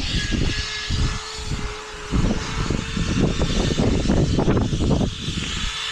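A steady motor hum holding one tone, under irregular low rumbling that is loudest from about two to five seconds in.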